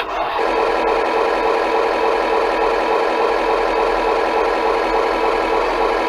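Engine idle sound played by an RC engine sound controller through its small speaker. It starts abruptly and runs steady and even, a little muffled as recorded by an action camera.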